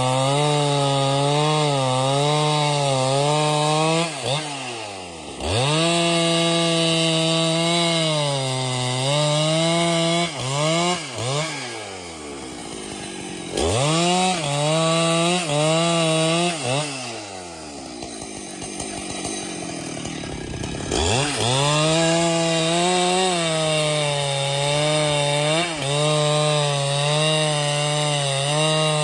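Two-stroke chainsaw cutting wood at full throttle, its pitch wavering as the chain bites. Three times, near 4 to 5 seconds in, around 11 seconds in, and from about 17 to 21 seconds in, the throttle is let off and the engine sinks toward idle before revving back up into the cut.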